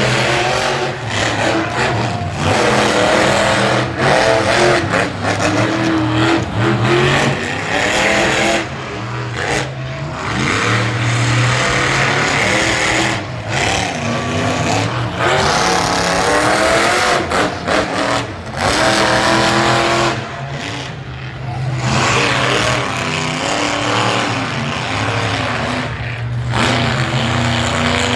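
Monster truck engine revving hard, its pitch climbing and falling again and again as the throttle is opened and cut, with a few brief drops in level.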